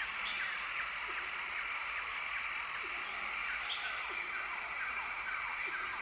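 Several small birds chirping, a continuous scatter of quick falling chirps over a steady background hiss.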